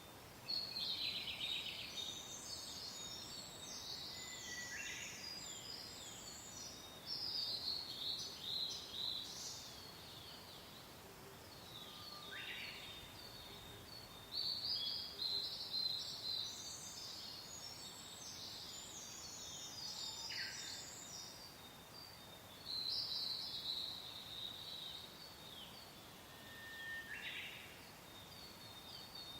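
Songbirds singing in bursts of rapid, high chirping phrases that come back every few seconds, over a soft, steady hiss of wind.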